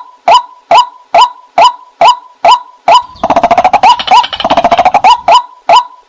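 White-breasted waterhen call track: a steady series of sharp 'kwak' notes about two and a half a second, broken near the middle by about two seconds of rapid, dense chattering. It is a recorded call played to lure waterhens.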